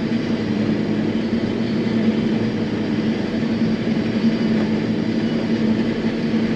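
John Deere self-propelled forage harvester running, heard from inside its cab: a steady mechanical drone with a strong, even hum.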